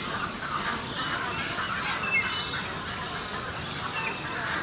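A breeding colony of Australian white ibis calling, with many overlapping short honking calls.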